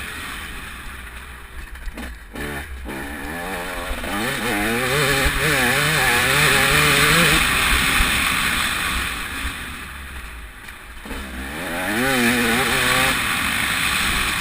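TM 300 two-stroke motocross bike's engine revving hard and easing off as it is ridden around the track, its pitch climbing and falling with the throttle. It drops back off the throttle about two seconds in and again around ten seconds in. A loud rushing hiss runs under it throughout.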